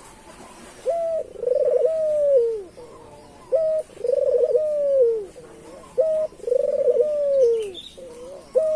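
A puter dove, a collared dove kept as a cage bird, cooing in three phrases. Each phrase is a short coo followed by a longer rolling coo that drops in pitch at the end.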